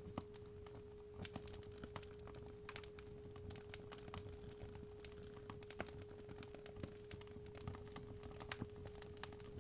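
A steady 417 Hz pure tone over fireplace fire crackling, with irregular sharp pops and a low rumble of the flames.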